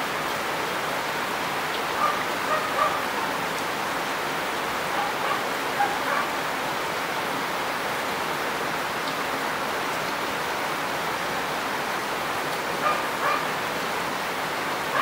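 Heavy rain falling steadily, broken by short calls in groups of two or three, about two, five and thirteen seconds in.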